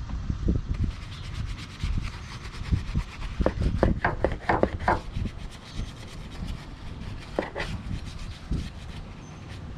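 Hand scrubbing and rubbing on a car's engine-bay surfaces during cleaning, with a quick run of short strokes about halfway through and a few more later, over a low rumble.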